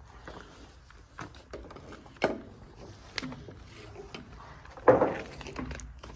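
Footsteps and scattered knocks, with two louder thumps, one a little past two seconds in and one near five seconds.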